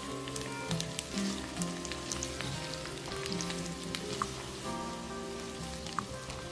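Spaghetti and shrimp in butter-garlic sauce sizzling in a nonstick pan while being tossed with tongs, with a light, steady crackle and scattered pops. Soft background music plays underneath.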